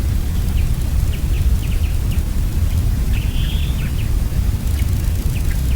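Forest ambience: a steady low rumble with small birds chirping throughout, short high chirps and a couple of brief trills, about half a second in and a little after three seconds.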